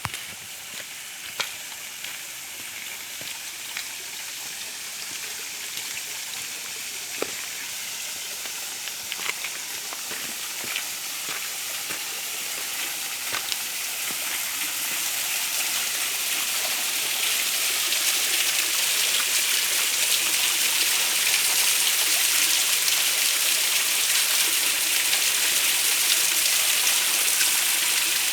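Running water of a stream or small cascade, a steady rushing hiss that grows louder over the first two-thirds and then holds steady, with a few sharp clicks in the first half.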